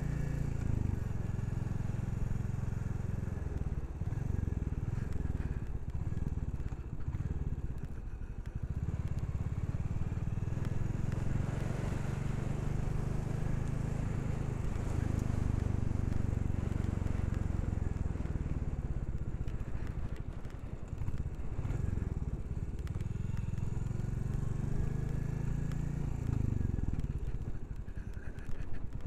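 Royal Enfield Classic 350's single-cylinder engine running under way. Its low note dips and rises several times as the bike slows and picks up speed.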